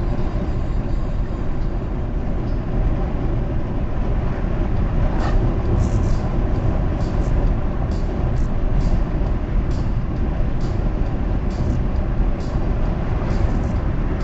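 Steady low road and engine rumble heard from inside a car driving on a highway, with faint, irregular short clicks from about five seconds in.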